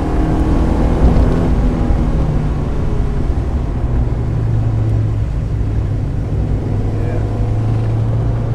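A 1995 Mazda Miata's 1.8-litre four-cylinder engine running under way on track, over a constant low rumble. Its pitch falls over the first two seconds or so as the car slows, then holds a steady note from about four seconds in.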